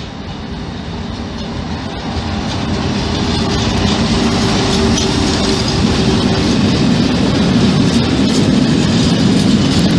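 A locomotive-hauled train approaching and passing close by, its wheels rumbling on the rails. It grows louder over the first four seconds, then stays loud as the wagons go past, with a steady tone partway through.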